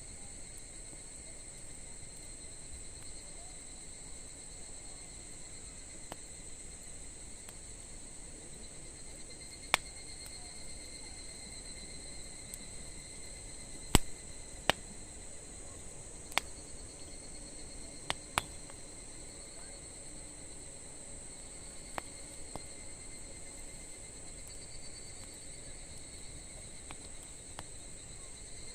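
Wood campfire popping now and then with single sharp cracks, the loudest about halfway through, over a steady high-pitched trill of insects.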